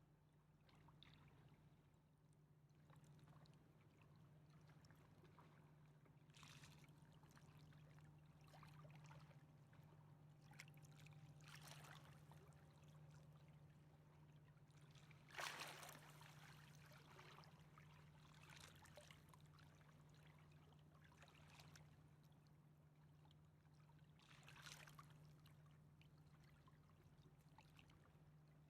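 Near silence: faint river water lapping a few times, the loudest splash about halfway through, over a low steady hum.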